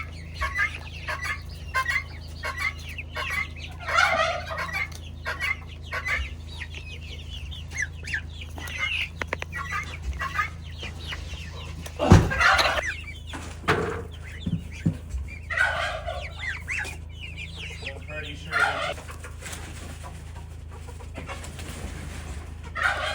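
A brooder full of young poultry chirping and clucking in many short calls, with one louder call about halfway through, over a steady low hum.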